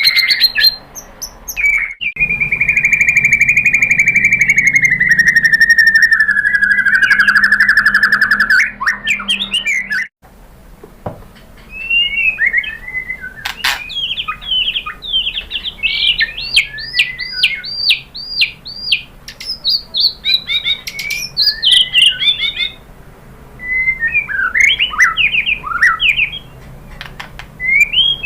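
White-rumped shama (murai batu) singing: a long trill that slides slowly down in pitch for about six seconds, then, after a brief break, a fast run of varied chirps, whistles and quick up-and-down sweeping notes.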